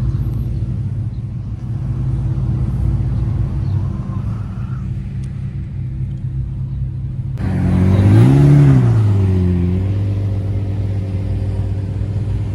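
A car engine running with a steady low drone while driving. About seven seconds in the sound changes abruptly, and an engine revs up and back down once, the loudest moment, before settling back to a steady drone.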